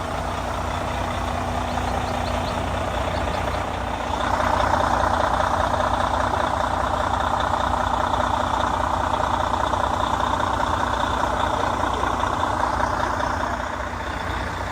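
A heavy truck engine running steadily with a low rumble. About four seconds in, a louder rushing noise rises over it and holds, then fades near the end.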